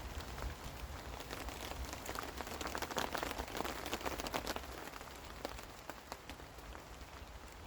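Rain pattering as many separate drops, falling heavier for a couple of seconds in the middle.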